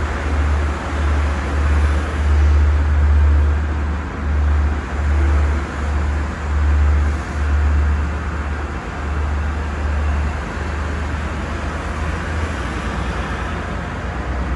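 Long Island Rail Road diesel-hauled passenger train rolling along the track below, a steady rumble. Under it a low throb swells and fades about once a second for the first ten seconds, then evens out.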